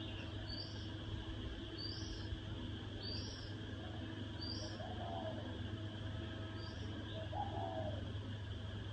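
Spotted dove cooing, with short low coo phrases about halfway through and again near the end. Short high chirps repeat roughly once a second over a steady low hum.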